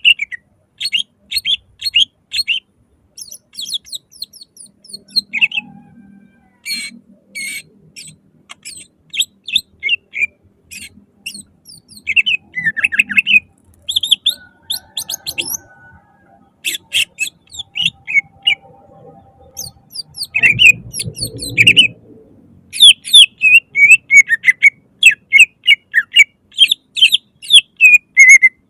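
Greater green leafbird (cucak ijo) singing loudly in rapid runs of short chirping and whistled notes, broken by short pauses.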